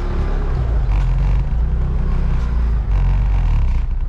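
Motorbike riding along: a steady low rumble of the engine and road noise.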